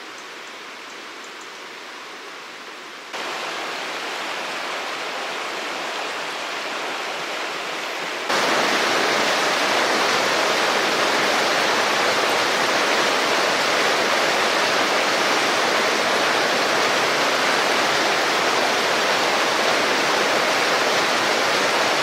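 Rushing river water, a steady hiss that jumps abruptly louder about three seconds in and again about eight seconds in.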